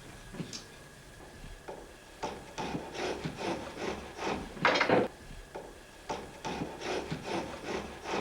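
Wooden saddle centerpiece being worked by hand: knocks and handling of the wood, then scraping strokes of a long hand plane shaving it, the longest and loudest stroke about halfway through.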